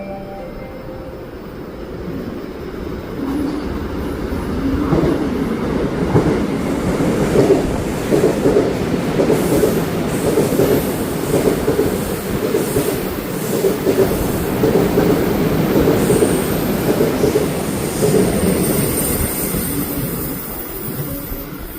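Korail Class 311000 electric multiple unit passing through a station without stopping. It grows louder from about three seconds in into a rhythmic clatter of wheels over the rail joints, about once a second. A thin high squeal comes near the end as the train draws away and fades.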